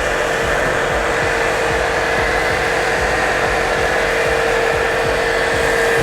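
Portable electric car pressure washer running with its foam lance attached: a steady motor hum under a continuous hiss.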